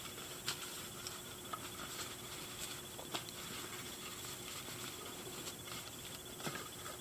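Faint scattered clicks and taps of a plastic doll being handled and fitted onto its plastic doll stand, over steady background hiss.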